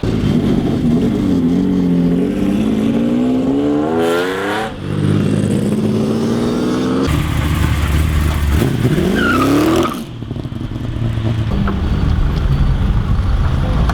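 Sports car engine revving. The pitch climbs in two long pulls, each breaking off abruptly, with steadier running between.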